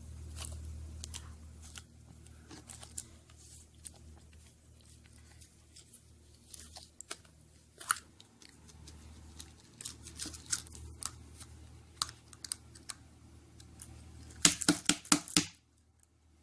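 Small plastic clicks and crinkles of a Kinder Surprise egg's plastic capsule and foil being handled as a child tries to pry the capsule open, which won't come apart. A quick run of louder clicks comes near the end.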